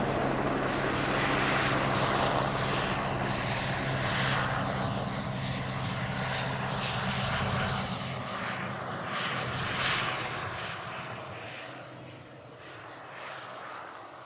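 Single-engine turbine helicopter flying a crop-spraying run, its rotor and turbine running steadily and loudly, then fading away over the last several seconds as it moves off.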